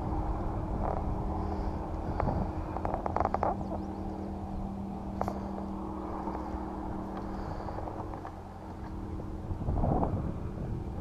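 Steady low hum of a boat motor over a rumbling background, with a short run of rapid clicks about three seconds in.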